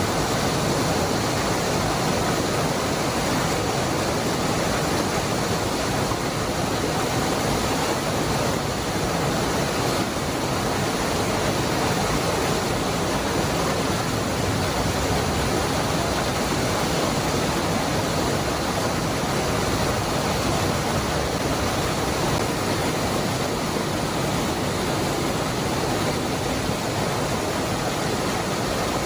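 Waterfall falling steadily into its pool: a constant, even rush of water with no pauses or changes.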